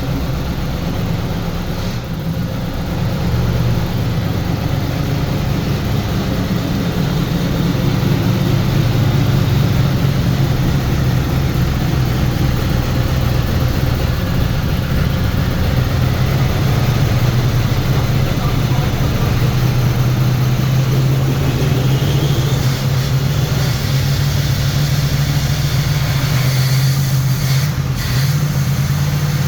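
Turbocharged Pontiac Trans Am V8 running steadily on its first run after a rebuild with a new flat-tappet camshaft, held running for the cam break-in. It gets a little louder over the first few seconds, then holds an even speed.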